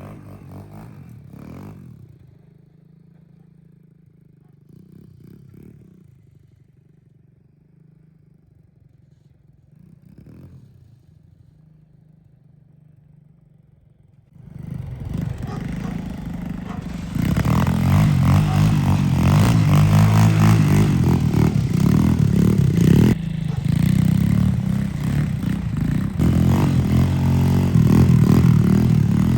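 125cc gas dirt bike engine idling quietly with a few short blips. About halfway through it gets suddenly much louder and runs hard under throttle, its pitch rising and falling as the bike is ridden.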